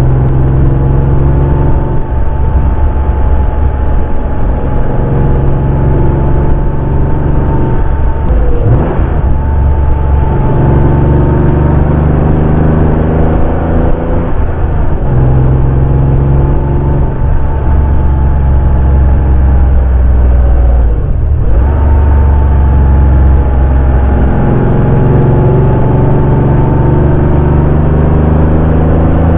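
Porsche 964's air-cooled flat-six engine pulling the car along a road, with a steady, loud engine note. The note breaks and changes pitch twice, about a third and two-thirds of the way through, as with gear changes.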